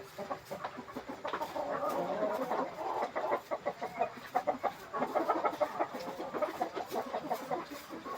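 A flock of kampung (Indonesian village) chickens clucking, many short calls overlapping without pause.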